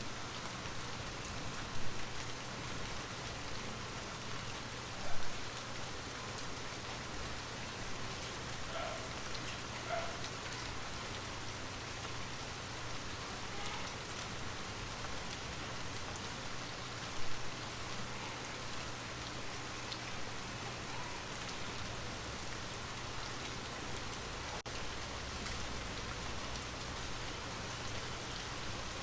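Steady rain falling, an even hiss of drops, with three short louder taps standing out about 2, 5 and 17 seconds in.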